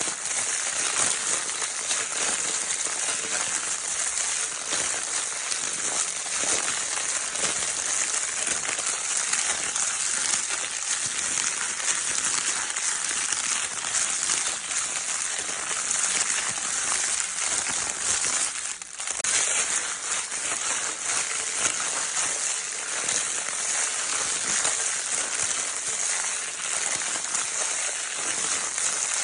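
Crinkle-paper baby toy being crinkled without a break: a dense, steady, hissy crackle, with a brief lull about two-thirds of the way through.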